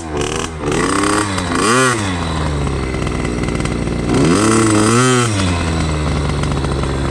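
Two-stroke KTM dirt bike engine riding along, with the throttle blipped so the revs rise and fall sharply about two seconds in and again around four to five seconds in.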